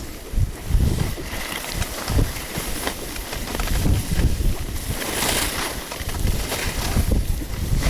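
Wind buffeting the camera microphone in gusts during a run down a snowy slope, with a hissing surge about five seconds in.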